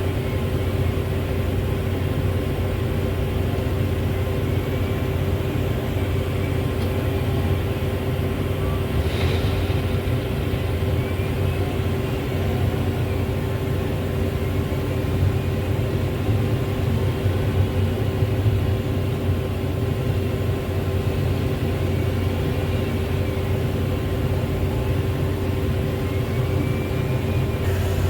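Heavy diesel engine of the loading machinery running steadily, with faint whines that rise and fall several times and a single short click about nine seconds in.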